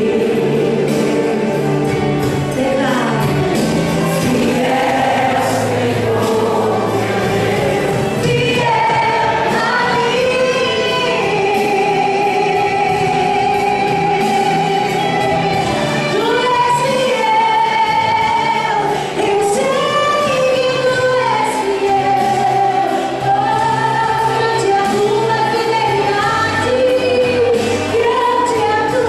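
Church choir singing a gospel hymn with instrumental accompaniment, voices holding long notes.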